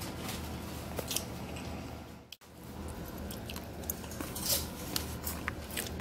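Close-up eating sounds: chewing with scattered small clicks, over a steady low hum. The sound drops out for a moment a little over two seconds in.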